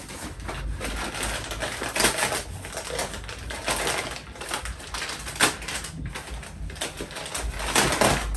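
Irregular crinkling, rustling and tapping of grocery packaging being handled while shopping is unpacked, with louder rustles about two seconds in, a little past five seconds and near the end.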